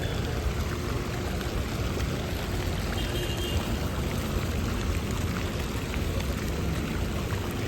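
Steady city street ambience: a constant wash of noise with a strong low rumble and no distinct events, apart from a faint short high chirp about three seconds in.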